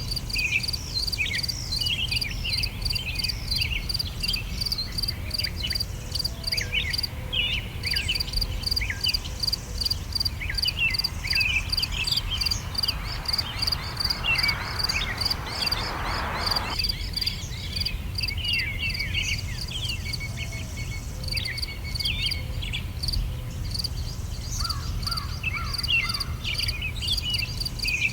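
Summer outdoor ambience: insects chirping in a rapid, even pulse that pauses briefly twice, while many birds sing short chirps and calls over a low steady rumble. About halfway through, a rushing hiss swells and then cuts off suddenly.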